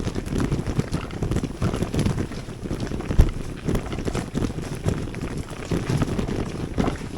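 Bicycle riding over a rough, stony track, with a steady jumble of rattles and knocks from the bike and wind buffeting the microphone.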